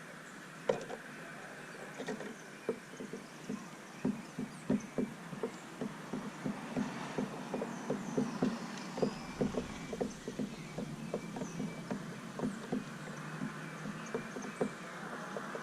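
Small birds pecking seed at a feeder: irregular light taps, several a second, with a few faint high chirps.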